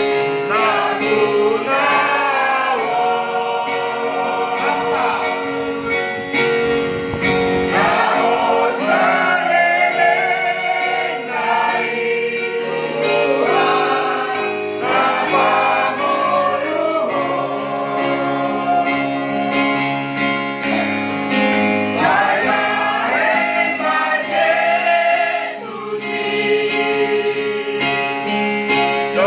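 Church choir singing together in rehearsal, several voices holding and moving between sustained notes.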